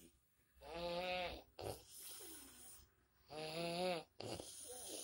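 A person snoring loudly: two long, droning snores about two and a half seconds apart, with quieter breathing between, likened in jest to a motorcycle exhaust.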